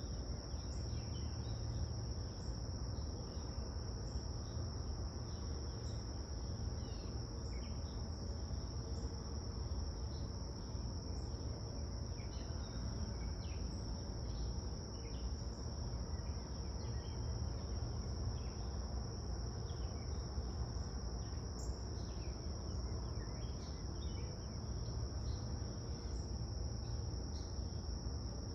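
A steady, high-pitched insect trill runs throughout, with birds chirping briefly again and again over it and a low rumble underneath.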